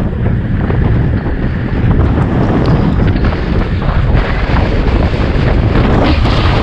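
Wind buffeting the microphone of a moving bicycle's camera: a loud, steady low rumble with no speech.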